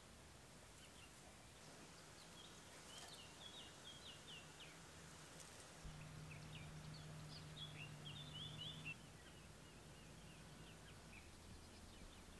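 Faint outdoor birdsong: clusters of short, quick, high chirps over the first two-thirds, with a faint low steady hum underneath that stops about nine seconds in.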